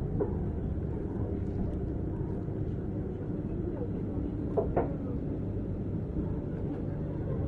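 JR 455 series express-type electric multiple unit running along the line, heard from inside the carriage: a steady low rumble of wheels and motors, with a short sharp sound about four and a half seconds in.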